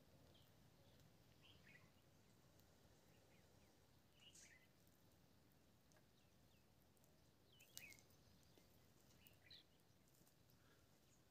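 Near silence: faint outdoor background with a few short, faint bird chirps scattered through it, the most distinct about eight seconds in.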